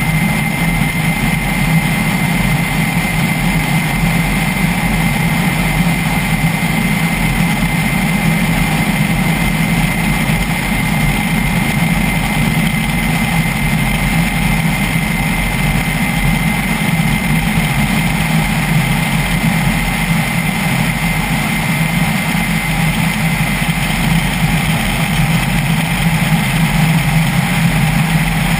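Kamov Ka-32T helicopter running steadily: twin turboshaft engines and coaxial rotors, a loud even drone with a steady high whine above it.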